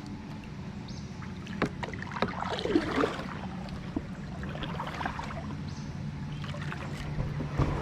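A sit-on-top plastic kayak being paddled: paddle splashes in the water and a few sharp knocks, over a steady low rumble.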